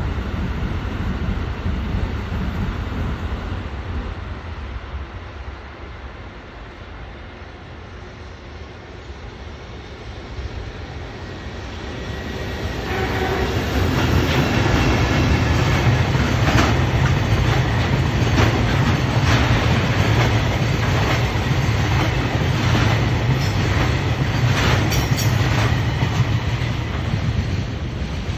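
Freight train of an EH200 electric locomotive and Taki tank wagons running past with a low rumble, growing louder about twelve seconds in. From there its wheels clack repeatedly over the rail joints until the end.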